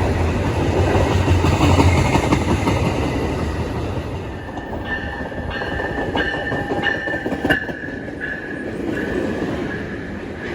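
A train passing with a deep rumble and rail clatter that eases after about four seconds. From the middle onward a high ringing tone sounds in short repeated pulses, about one and a half a second.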